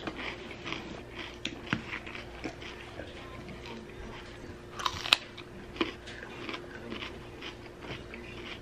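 Close-up chewing of crunchy food, with wet mouth clicks and crackles. The loudest moment is a crisp crunching bite about five seconds in.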